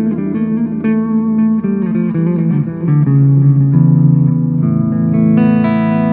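Electric guitar played clean through a multi-effects pedal set to digital delay, with a clean, plain echo. A run of picked notes gives way to held notes, and a chord is struck about two-thirds of the way in and rings on.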